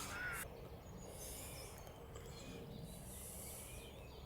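A crow's caw trailing off in the first half-second, then faint open-air ambience: low wind rumble on the microphone, patches of high hiss and a few small distant bird chirps.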